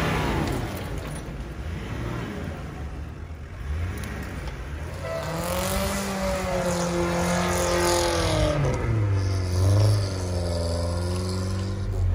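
Off-road 4x4's engine revving hard under load, its pitch rising and falling, then dropping to a lower, steadier note about nine seconds in.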